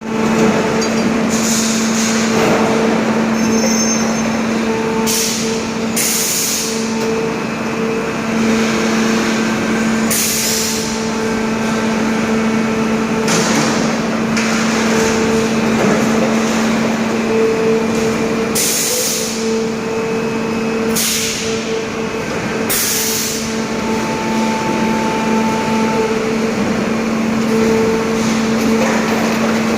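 Factory machinery running: a loud, continuous mechanical din with a steady hum, broken by short hissing bursts at irregular intervals.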